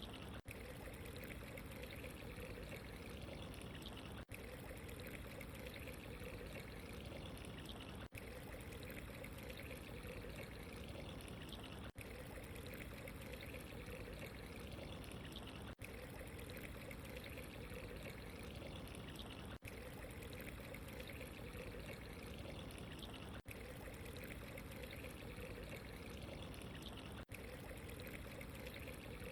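Steady running water ambience with an even, unbroken rush. Very brief dropouts come about every four seconds.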